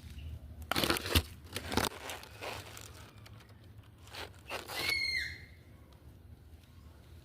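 Crinkling, tearing rustles in several short bursts, like paper or plastic being handled. A brief high tone that dips slightly in pitch follows about five seconds in.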